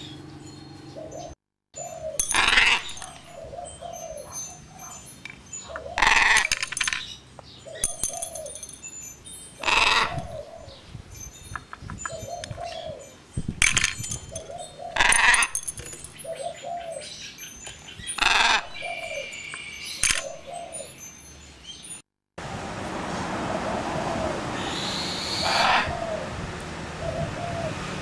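A trained parrot calling: loud, harsh screeches repeated every few seconds, with shorter, lower bleat-like calls in between.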